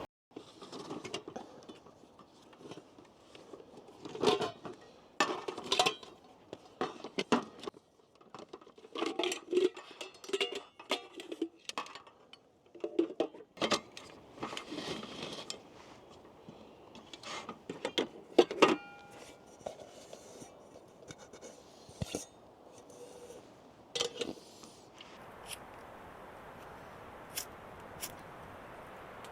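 Cooking pots and utensils being handled: irregular metal knocks, clinks and scrapes, with one clear ringing clink about two-thirds of the way through. A steady soft hiss takes over near the end.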